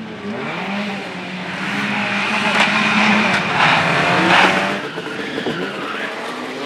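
Slalom car driven hard through the cones, its engine revving up and down between gear changes while the tyres squeal and skid, loudest in the middle.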